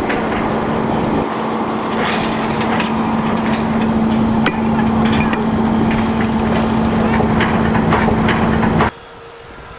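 Narrow gauge industrial train running close by: a loud steady drone with a constant low hum and a dense clatter of sharp knocks. It cuts off suddenly near the end.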